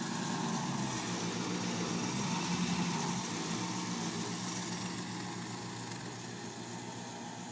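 1937 Ford roadster hot rod's engine running at low speed as the car rolls slowly past. It is loudest about two to three seconds in and fades as the car pulls away.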